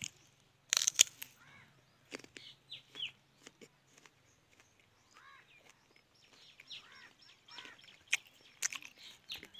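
Small birds chirping in short, arching calls throughout, with a loud sudden noise about a second in.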